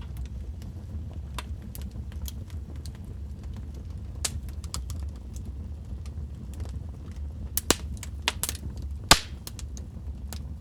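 Wood fire in a fireplace crackling: scattered sharp pops and snaps over a steady low rumble. The loudest pops come in the second half.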